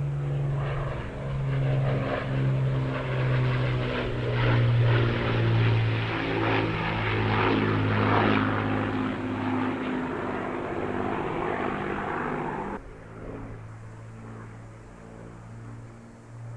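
Avro Lancaster's four Rolls-Royce Merlin piston engines droning in a pass overhead, the engine note wavering in pitch. About 13 seconds in the sound drops suddenly to a duller, quieter drone.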